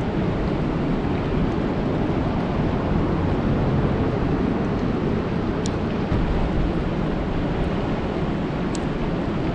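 Steady rain falling on a lake, a dense even hiss with a deep low rumble, broken by a couple of sharp drip ticks in the second half.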